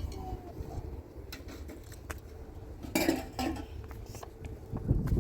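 Kitchen utensils clinking and knocking against a cooking pot and dishes, a few separate knocks with a louder clatter about three seconds in, over a low steady rumble.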